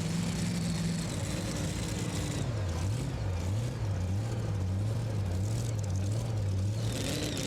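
Super modified two-wheel-drive pulling truck's engine running at low revs; about two and a half seconds in its pitch begins rising and falling in a steady rhythm as the throttle is worked.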